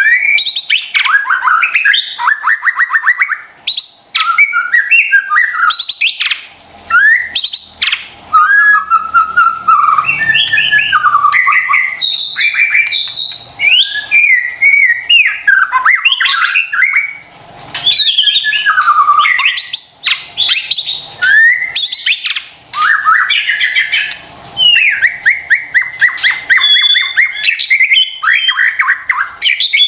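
White-rumped shama (murai batu) in continuous full song: varied whistled phrases broken by fast rattling trills and sharp clicks, with barely a pause.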